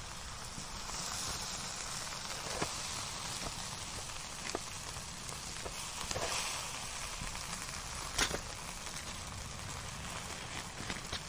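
Fire burning: a steady hiss of flames with scattered sharp crackles and pops, the loudest pop about eight seconds in.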